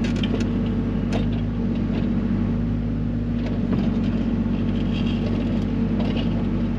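Mini excavator's diesel engine running steadily, with a few faint knocks.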